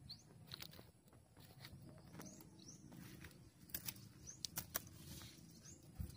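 Faint outdoor quiet with small birds chirping now and then, and a few light crackles of dry twigs and brush underfoot around the middle.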